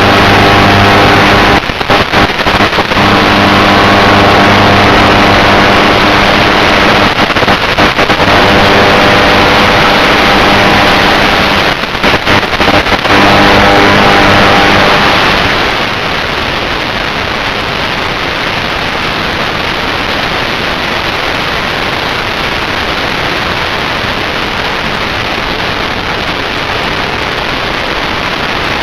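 FPV aircraft's electric motor and propeller under power, a steady buzzing note with brief crackly dropouts about 2 and 12 seconds in. About halfway through the motor note stops and only a steady hiss remains.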